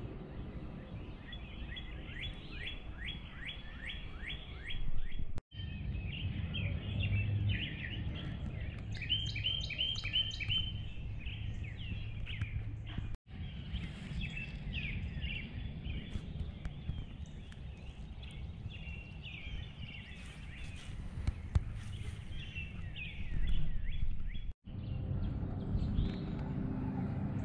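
Songbirds chirping and singing in quick series of short calls over a steady low rumble of outdoor noise. The sound drops out completely for a moment three times.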